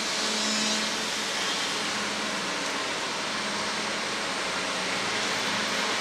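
Hitachi Bebicon air compressor running steadily, a constant hum under a broad hiss. Its pump unit (head and cylinder) is newly replaced after the old one seized.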